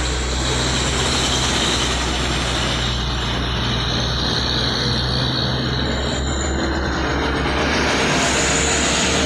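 Heavy truck's diesel engine running steadily under a wash of road noise, with a deep, even drone.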